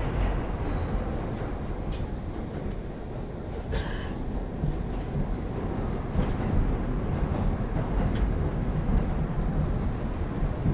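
New York City subway N train car running along the track: a steady low rumble of wheels on rail with a few faint clicks, and one short, sharper noise about four seconds in.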